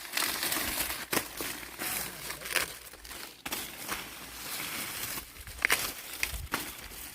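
Dry corn leaves and stalks rustling and crackling, with a few sharp snaps.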